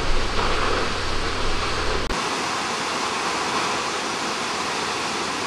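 Steady rushing of a large waterfall, swollen with snowmelt water. The sound briefly drops out about two seconds in.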